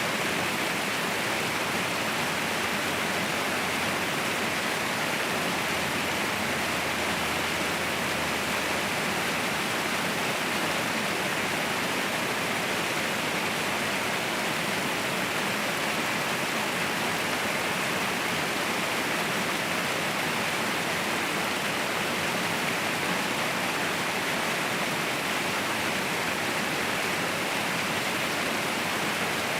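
Waterfall rushing steadily, a continuous even roar of falling water with no breaks.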